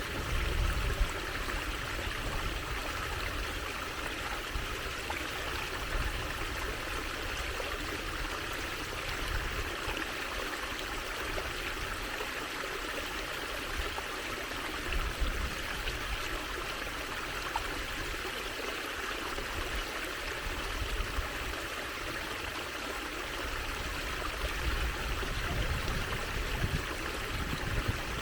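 Water trickling steadily, with a low rumble coming and going underneath.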